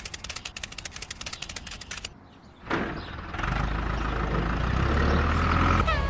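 Rapid clicking, about a dozen clicks a second, for about two seconds, then after a short pause an engine starts and runs steadily with a low hum.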